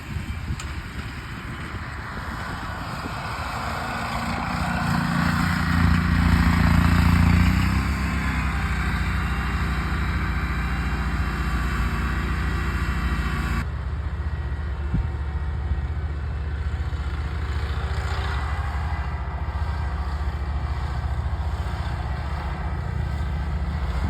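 Grasshopper ride-on mowers' engines running while mowing a steep slope, growing louder for a few seconds as a machine comes closer, then running steadily. About fourteen seconds in the sound changes abruptly and the higher hiss falls away.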